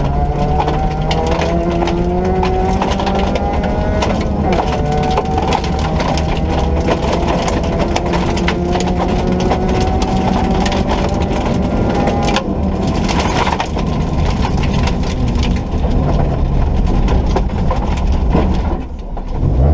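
Ford Ka rally car's 1.4-litre four-cylinder engine pulling hard, its pitch climbing through the gears with a drop at each shift. A dense crackle and clatter runs underneath throughout. Near the end the engine briefly lifts off, then picks up again.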